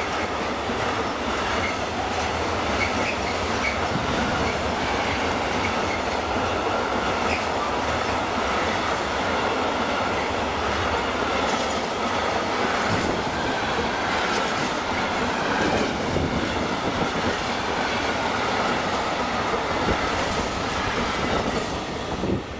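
Intermodal freight train of container wagons passing at speed, its wheels rumbling and clattering over the rails without a break, with a faint high wheel squeal on the curve.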